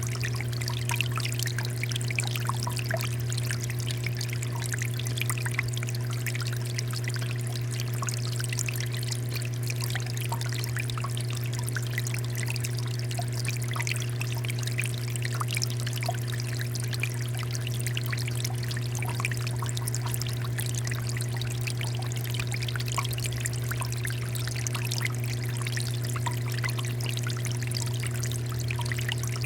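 Water fountain running steadily, water pouring and splashing, with a steady low hum underneath.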